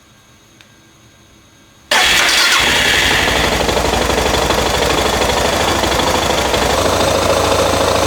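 Suzuki DR650's single-cylinder four-stroke engine starting about two seconds in and settling into a steady idle, run with engine flush added to the oil to clean the motor before the oil change.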